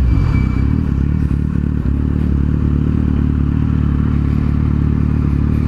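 Kawasaki Z750 inline-four engine running at a steady engine speed, with a constant low exhaust note.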